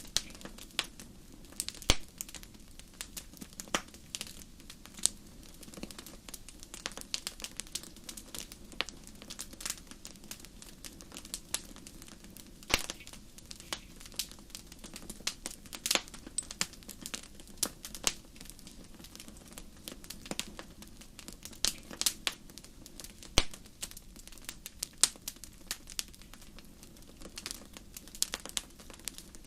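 Wood fire crackling: many irregular sharp pops and snaps over a low steady hiss, with a few louder pops.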